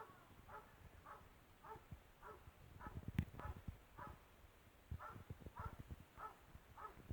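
Police dog barking faintly and repeatedly, about two barks a second, with a short pause midway. Low knocks and a sharp click about three seconds in.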